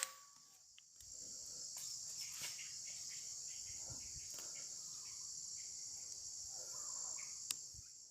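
Steady, high-pitched chorus of insects buzzing. It comes in about a second in, after a brief near-silent gap, and there is a single sharp click near the end.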